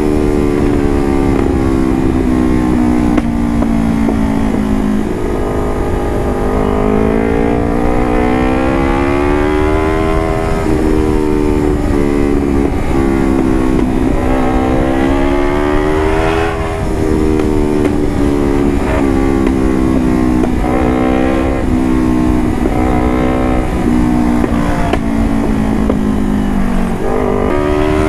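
Motorcycle engine running through an aftermarket carbon exhaust, its pitch repeatedly sliding down and then climbing again as the revs fall and rise.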